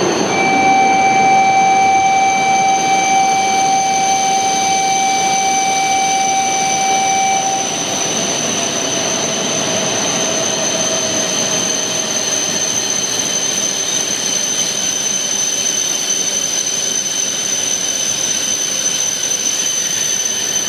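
E3 series 2000 shinkansen standing at the platform with its equipment giving a steady high whine. A steady electronic buzzer tone sounds for about seven seconds at the start, the door-closing warning before departure. Near the end the train begins to pull away.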